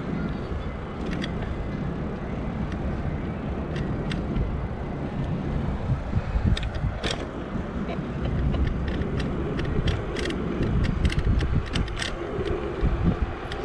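E-bike riding on a city street: a steady low rumble of road and wind, with scattered sharp clicks and rattles.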